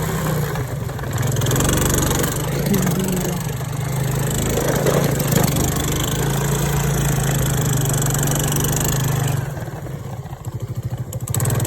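Motorcycle engine running under way, with heavy wind noise over the microphone; near the end the wind noise drops and the engine's fast, even pulsing comes through plainly.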